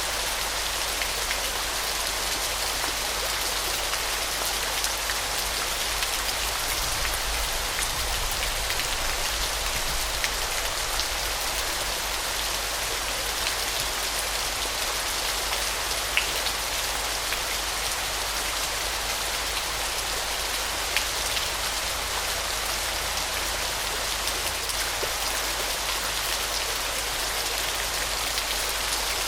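Waterfall water falling and splashing: a steady, even hiss with a rain-like patter of small droplet ticks scattered through it.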